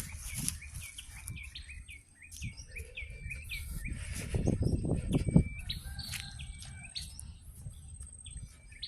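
Small birds chirping over and over in short hooked notes, with a thin steady high insect tone behind them. About four seconds in comes a louder burst of rustling, handling noise for a second or so.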